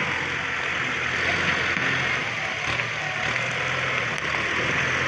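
Kubota MU5702 tractor's four-cylinder diesel engine running steadily, with an even hiss over it.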